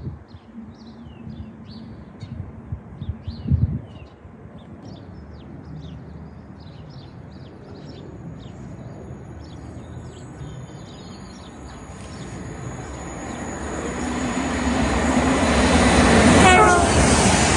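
Birds chirping over light wind buffeting the microphone. Then a GWR Intercity Express Train approaches at speed, its rumble and wheel noise building steadily over the last few seconds, with a short falling tone near the end.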